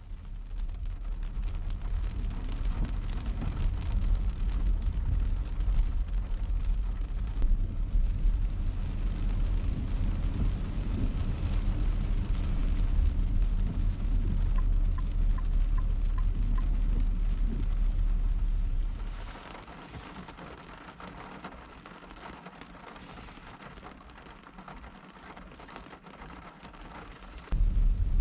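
Car driving in rain, heard from inside: a steady low road-and-engine rumble under the hiss of rain. About two-thirds of the way in, the rumble falls away and leaves a quieter rain hiss with a few swishes. Near the end the rumble comes back abruptly.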